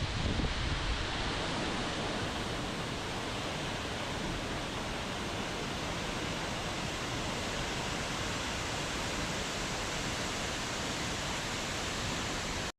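Steady, even rushing of water that cuts off suddenly at the very end.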